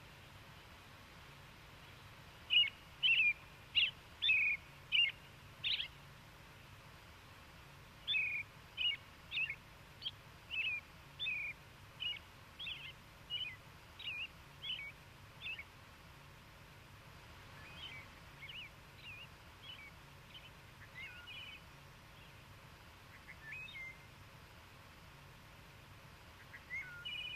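A songbird calling in runs of short chirps, about two a second, with pauses between runs; the last run is fainter. A faint steady low hum lies underneath.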